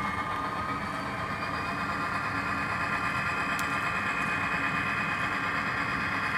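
Tsunami sound decoder in a Proto 2000 GP30 model locomotive playing an EMD 567D diesel engine sound through the model's small speaker, running steadily. The engine tones edge up in pitch and level over the first couple of seconds, then hold.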